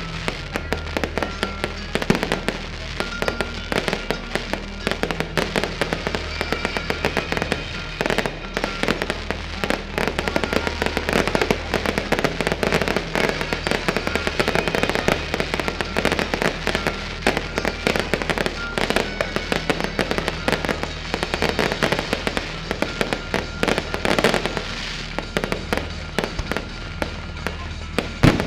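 Aerial fireworks bursting overhead: a dense, continuous run of bangs, pops and crackles from the shells, with music playing underneath.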